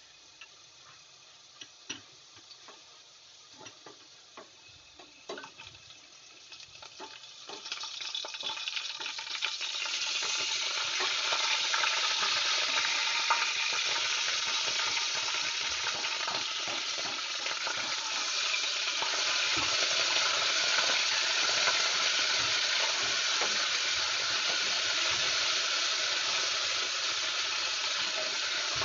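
Onions and ginger-garlic paste frying in hot oil in a pot, stirred with a silicone spatula. A few light taps come at first; then, from about eight seconds in, a loud, steady sizzle builds up as the paste fries.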